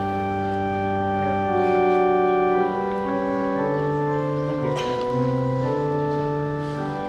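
Organ playing slow, sustained chords, each held about a second or more before moving to the next.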